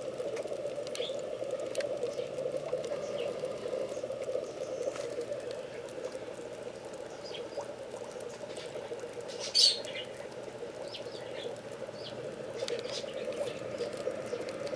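Small birds chirping faintly and now and then over a steady hum, with one louder short chirp about ten seconds in.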